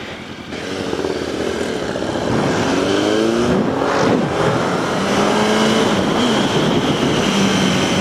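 Motorcycle engine accelerating, its pitch climbing in a few steps, then running steadier, with wind rushing over the helmet microphone.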